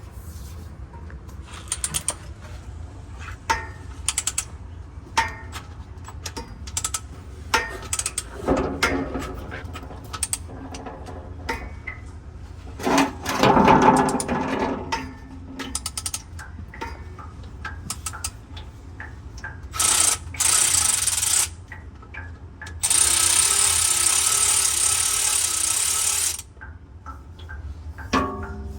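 Hand ratchet clicking in short runs as transmission pan bolts are backed out to start the fluid draining, with louder metal clatters in between. Near the end a steady hissing rush lasts about three seconds.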